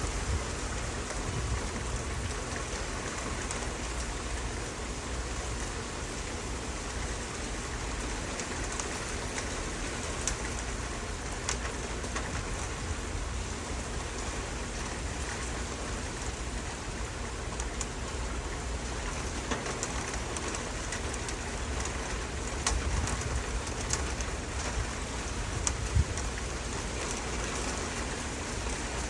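Steady rain falling, with a few louder drips or knocks standing out.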